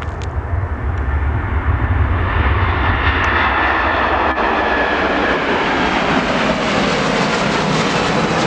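Jet airliner's engines: a loud rushing noise that builds over the first few seconds as the aircraft draws near, then holds steady.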